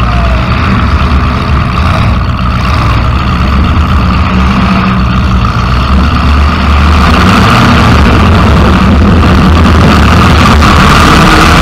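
Demolition derby car's engine running loud through open upright exhaust stacks, getting louder about six and a half seconds in.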